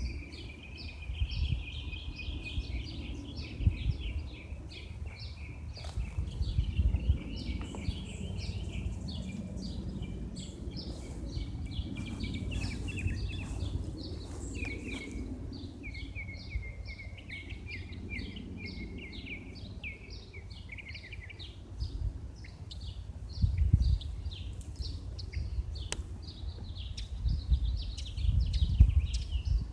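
Small birds chirping continuously in many quick repeated notes, with a gusty low rumble that swells several times.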